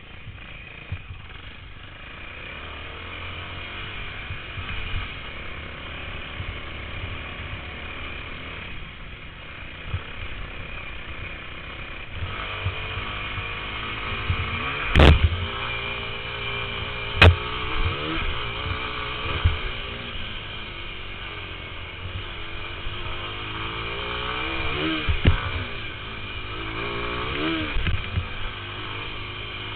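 Motocross bike engine running and revving, its pitch rising and falling again and again with the throttle. Two sharp knocks come about halfway through.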